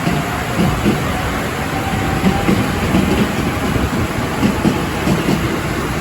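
JR 205 series electric commuter train running through the station, its wheels knocking over rail joints and points in an uneven clatter, over a steady hiss of heavy rain.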